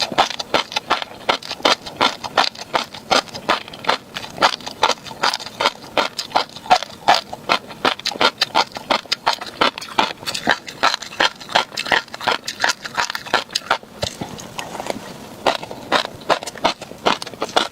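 Close-miked chewing of crunchy tobiko (flying fish roe): a fast, irregular run of crisp pops and crunches as the tiny eggs burst, several a second, easing briefly about fourteen seconds in before picking up again.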